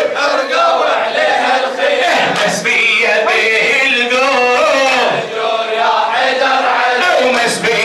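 A crowd of men's voices chanting together, a Shia latmiya mourning chant for Imam al-Ridha, the sung lines rising and falling.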